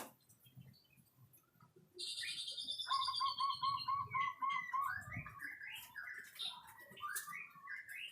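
White-rumped shama (murai batu) singing. After a couple of seconds of faint chirps, loud varied song begins: high falling whistles, then a run of about seven quick repeated lower notes, then rapid varied warbled phrases.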